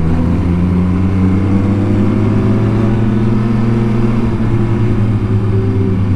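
MV Agusta Superveloce 800's three-cylinder engine running while the bike is ridden, its pitch rising slowly at first and changing about four seconds in.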